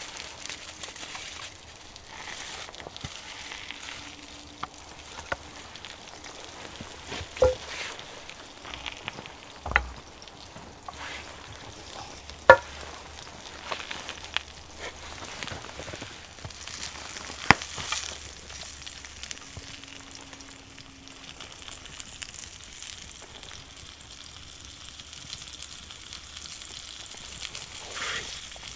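Steak sizzling over a wood fire, a steady frying hiss broken by a few sharp pops, the loudest about twelve seconds in.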